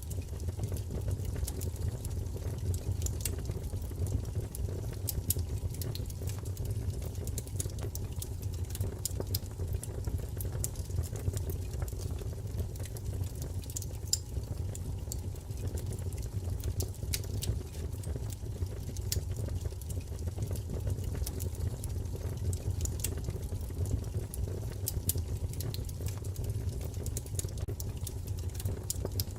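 Wood fire crackling: frequent irregular small pops and snaps over a steady low rumble of flame.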